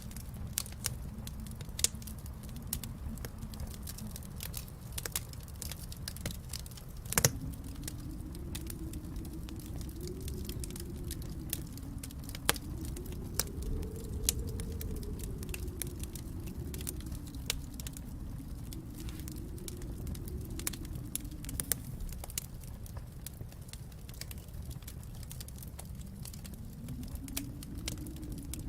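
Wood fire in a fireplace crackling, with scattered sharp snaps and a loud pop about seven seconds in, over a low rumble that swells and fades.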